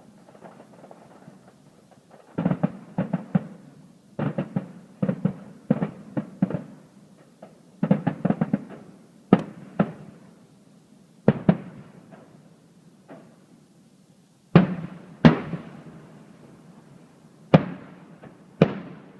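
Fireworks shells bursting: a couple of seconds in, rapid clusters of sharp bangs and crackles, then single loud booms with echoing tails, two close together near the middle and two more near the end.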